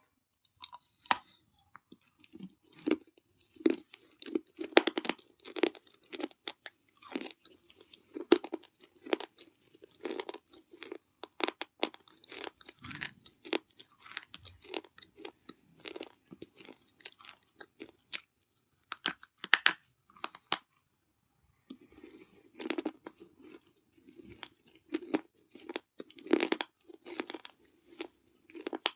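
Baked clay being bitten and chewed: a dense run of sharp, irregular crunches and crackles, with a pause of about a second a little past the middle.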